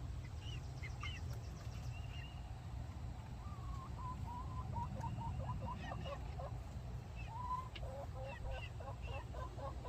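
Backyard laying hens making soft clucks and short calls, with a run of quick notes in the second half, over a steady low hum.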